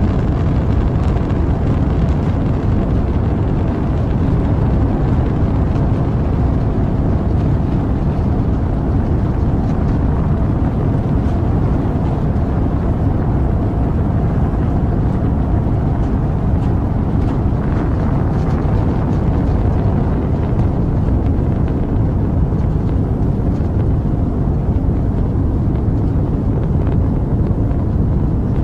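Rocket engine rumble: a steady, loud, deep roar of noise that holds level without change, with faint crackle above it.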